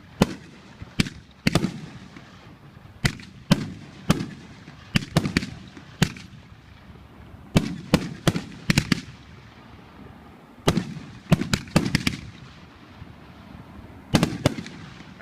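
Consumer firework cake firing: about twenty sharp bangs in uneven clusters of two to four, each followed by a short fading echo.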